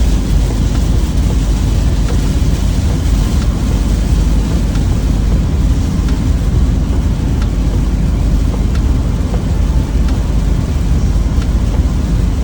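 Steady road and engine noise of a moving U-Haul truck heard from inside the cab, a loud even rumble heaviest in the low end, with no distinct events.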